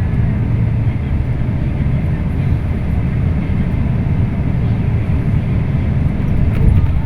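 Scania K340IB bus's diesel engine running steadily under way with a low rumble of engine and road noise, heard from inside the cabin.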